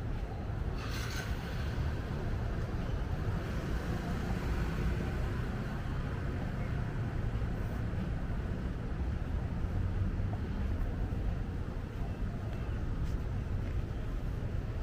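Steady city street traffic noise, cars passing with a constant low rumble.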